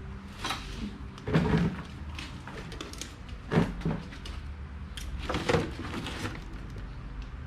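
Irregular knocks and clatters of hard parts and tools being handled, about eight over several seconds, over a low steady hum.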